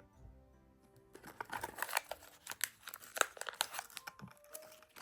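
Soft background music for about the first second, then rapid, irregular crinkling and crackling of a plastic cat-treat packet being handled.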